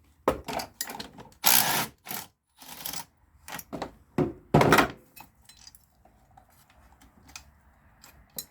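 Metal bracket and hand tools clanking and scraping as the bracket is worked back into place in a car's engine bay. There is a run of knocks and rattles, the loudest about a second and a half and four and a half seconds in, then only a few light ticks.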